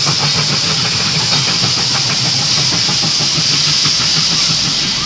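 Steam-hauled narrow-gauge passenger coaches rolling past close by, steel wheels clattering rapidly on the rails over a steady hiss.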